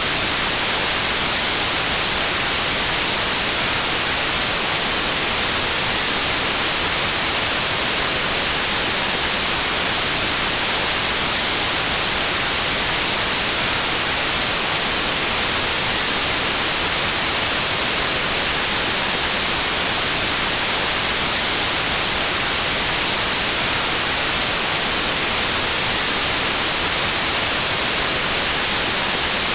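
Steady white noise: an even, unchanging hiss, brightest in the high end, with no breaks or changes.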